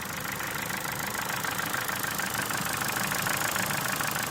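Ford Mondeo Mk4 1.6 engine idling with a steady, rapid clicking that makes it sound like a diesel. The owner suspects the ticking comes from the valves or valve buckets.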